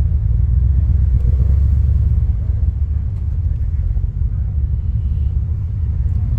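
Corvette's engine and exhaust giving a deep, steady low rumble while driving, with road noise. The rumble eases slightly about two and a half seconds in.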